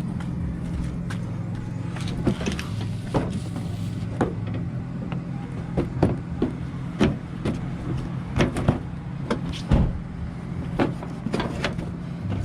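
Irregular clicks and knocks of car body parts being handled and fitted, over a steady low hum.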